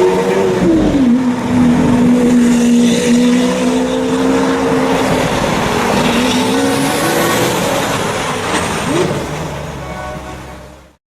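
Lamborghini Aventador's V12 engine running loud with a steady pitched tone: the pitch climbs, drops about a second in, then holds for several seconds before the sound fades and cuts off near the end.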